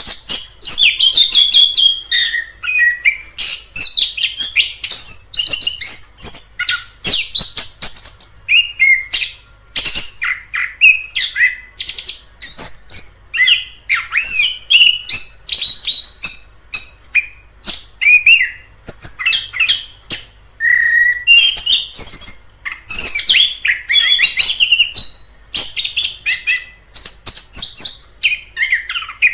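Orange-headed thrush singing a long, varied, high-pitched song of quick whistled and twittering phrases, almost without pause.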